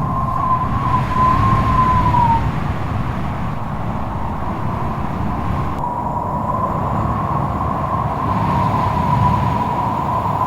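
Strong wind blowing hard, a steady rushing with a low rumble and a high, wavering howling whistle that fades out about two seconds in and comes back around six seconds in.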